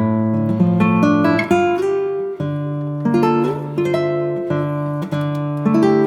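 Background music played on a plucked acoustic guitar: a melody of picked notes over a steady bass.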